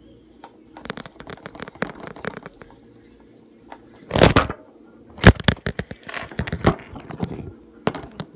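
Homemade glue slime being mixed and worked by hand, giving sticky crackling clicks in clusters, with a couple of louder pops about four and five seconds in.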